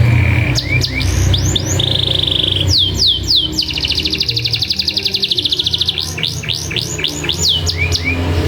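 Domestic canary singing: runs of quick falling whistled "cuit cuit" notes between long, rapid, even trills (rolls). The longest roll lasts about two and a half seconds in the middle.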